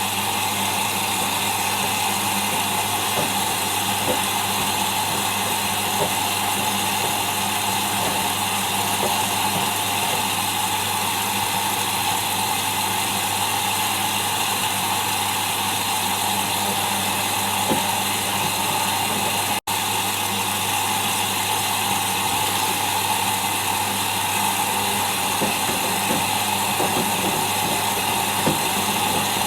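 Whirlpool Indiana 1400 washing machine spinning at high speed: a steady mechanical hum and whoosh that holds an even pitch. The sound cuts out for an instant about twenty seconds in.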